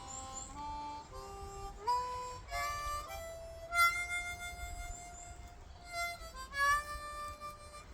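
Harmonica playing a slow melody one note at a time, with a long held note in the middle.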